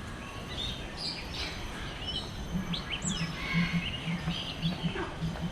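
Several birds chirping and calling: short chirps and quick pitch sweeps, high-pitched. From about two and a half seconds in, a low pulsing sound repeats in short beats underneath.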